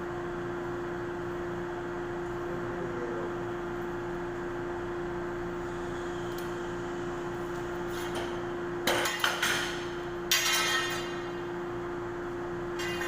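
A steady hum with one constant tone, then from about nine seconds in a few sharp metallic clinks and clanks that ring briefly.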